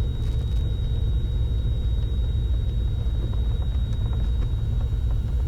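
Cessna 310Q's two piston engines running at low power while taxiing, a steady low rumble heard from inside the cockpit, with a thin steady high-pitched whine over it.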